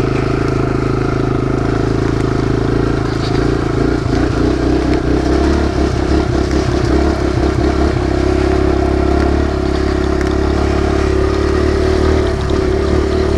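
Kawasaki KLX140 dirt bike's single-cylinder four-stroke engine running under way. The engine note is steady, turns choppy and uneven from about four to eight seconds in, then settles steady again.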